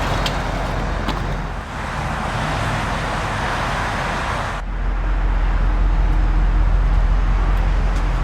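The 4.0-litre V8 of a 1997 Jaguar XK8 idling steadily, heard at the rear of the car by the exhaust. About halfway through, the low exhaust rumble gets louder while the hiss above it drops away.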